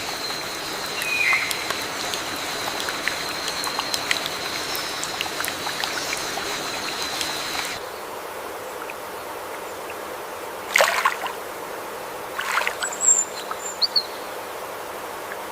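Flowing stream water, with a thin steady high insect hum over the first half that stops about halfway through. Near the end come a few short, sharp sounds and some brief high bird chirps.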